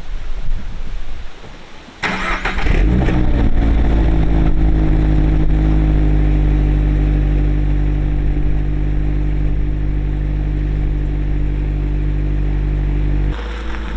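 Toyota GR86's 2.4-litre flat-four engine starting about two seconds in, then idling steadily; near the end the idle steps down slightly.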